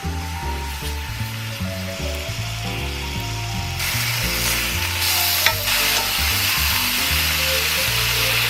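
Food frying in hot oil in a pan: sizzling starts about four seconds in and grows louder a second later, with one sharp click just after. Background music with a bass line plays throughout.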